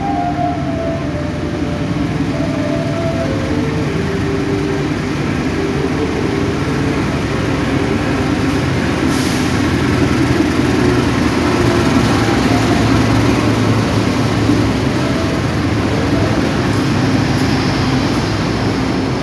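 Diesel-electric locomotive hauling a passenger train into a station, running slowly alongside the platform. A whine steps down in pitch over the first several seconds as it slows. The engine rumble grows louder as the locomotive passes, with a short hiss about nine seconds in.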